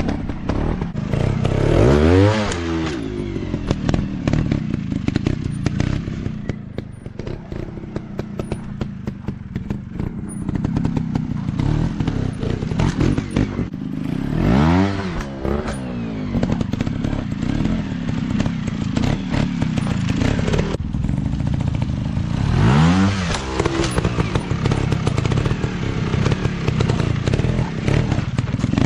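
Dirt bike engines running and revving, their pitch climbing and dropping in three strong surges (about two, fifteen and twenty-three seconds in) over a continuous rattle of engine noise.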